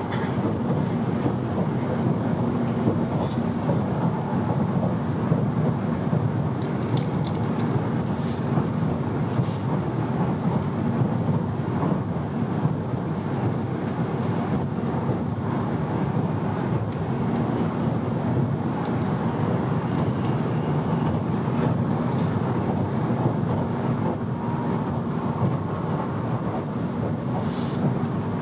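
Steady running noise of an N700-series Shinkansen heard from inside a passenger car: an even low rumble of wheels on rail with a faint steady hum and a few faint ticks.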